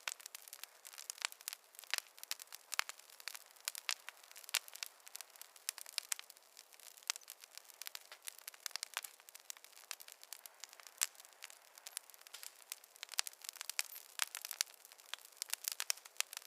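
Wood fire crackling in a fireplace: a steady run of irregular sharp pops and snaps over a faint hiss.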